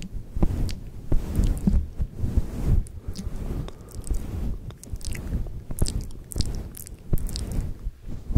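Close-up ASMR mouth sounds: irregular wet clicks and smacks of the lips and tongue right at the microphone.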